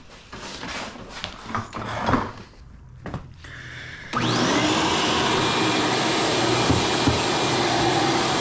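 A few knocks and clatter of handling, then about four seconds in a vacuum cleaner is switched on. Its motor whines up to speed within a second and runs steadily.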